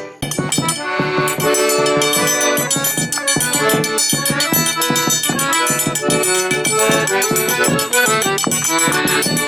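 Forró pé-de-serra played live, an accordion carrying the melody over a quick, even percussion beat, with no singing. There is a brief drop in the sound at the very start.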